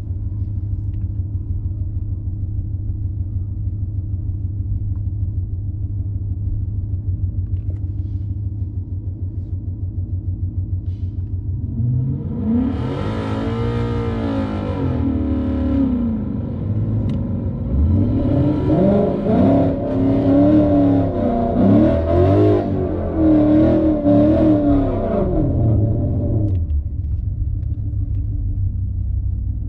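Car engine idling with a low, steady rumble, then revved up and back down once about twelve seconds in, followed by a string of quick revs over the next several seconds before it settles back to idle.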